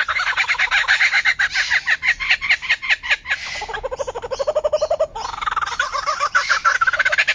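A bird calling in a fast stream of short repeated notes, many a second, whose pitch keeps shifting: the notes drop lower for a stretch midway, then climb back up.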